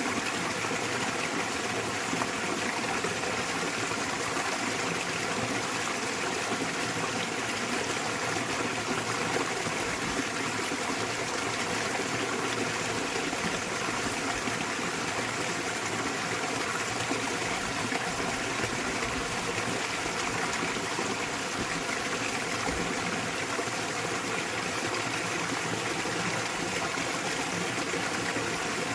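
Small waterfall in a valley stream, water falling and splashing in a steady, even rush.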